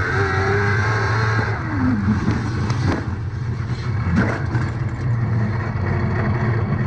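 A car driving, with steady engine and road noise as picked up by a dashcam.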